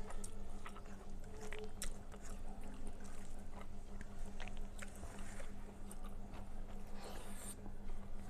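Close-up eating sounds of a mouthful of rice, red amaranth greens and potato curry being chewed: irregular wet smacks and clicks, with a short rustle about seven seconds in. A steady low hum runs beneath.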